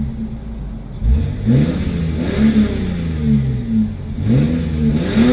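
1997 Lexus GS300's 2JZ-GE inline-six exhaust, secondary muffler removed, revving as the car accelerates, its pitch rising sharply about a second in and again a few more times. The delete gives a drony tone.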